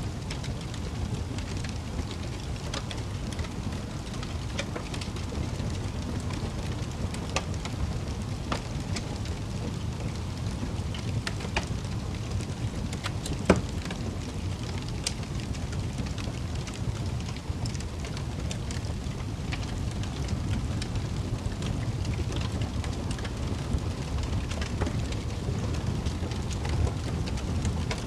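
Wood fire crackling in a fireplace: scattered crackles and one sharp pop about halfway through, over a steady low rumble.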